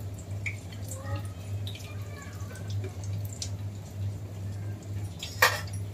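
Potato snacks frying in hot oil in a kadhai, with faint crackling and a metal spatula scraping and clicking against the pan; one sharp clink about five seconds in is the loudest sound. A steady low hum runs underneath.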